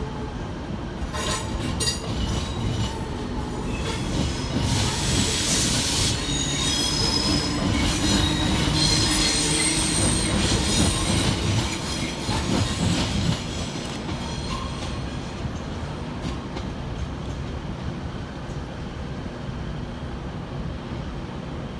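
Northern Class 769 multiple unit pulling out of the station: a steady rail rumble that builds and then eases off about 14 seconds in, with high wheel squeal in the middle of the pass and wheels clattering over rail joints.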